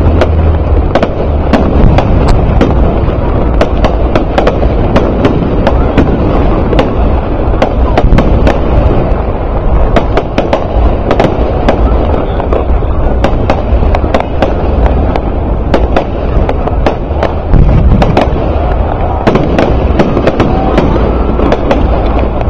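Fireworks display going off: a dense, continuous run of sharp pops and crackles over a steady low rumble, loud throughout.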